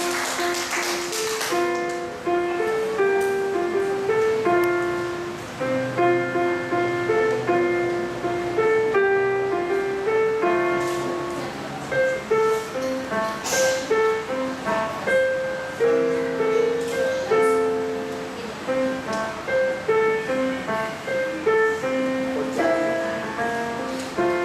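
Solo piano playing a gentle melodic piece: a steady run of single notes over a lower accompaniment, each note struck and then fading.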